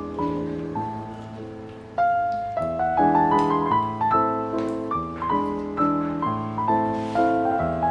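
Background piano music: a gentle melody over sustained chords, growing louder about two seconds in.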